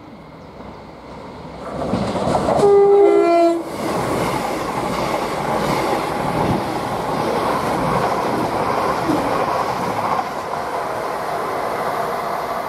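Passenger train sounding a two-tone horn, a higher note then a lower one, lasting about a second. It then passes at speed with a steady rush of wheels on rail and running noise.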